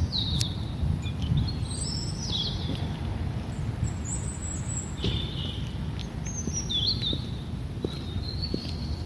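Songbirds singing: short high chirping phrases, some rising in pitch, every second or two, over a steady low rumble.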